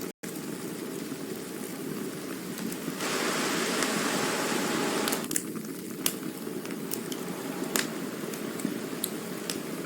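Campfire burning: a steady hiss with scattered sharp crackling pops, the hiss swelling louder for about two seconds midway. The sound drops out for an instant just after the start.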